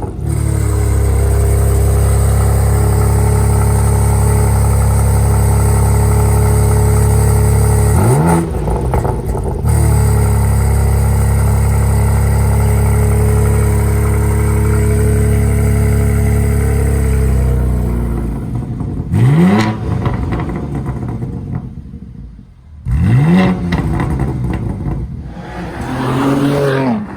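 2023 BMW M4's twin-turbo straight-six running through its exhaust, held at a steady raised rpm for about eight seconds, briefly dropping and climbing again, then held once more. After about seventeen seconds it settles lower, with three quick rev blips near the end.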